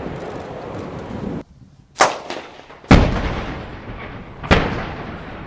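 Three sharp explosive bangs from demolition blasting charges, the second about a second after the first and the third a second and a half later, each with a trailing echo. Before them, a steady noisy rumble cuts off abruptly.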